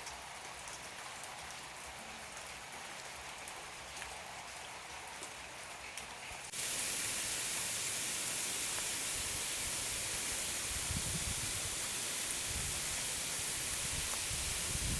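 Heavy rain falling, with scattered drops ticking. About halfway through it cuts suddenly to a louder, steady hissing rush of rain, with low rumbles near the end.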